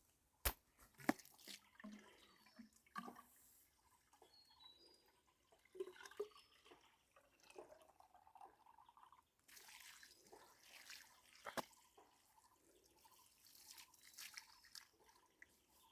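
Near silence, broken by scattered faint clicks and taps, the sharpest about half a second in, a second in and near the end, with a few faint, short bird chirps.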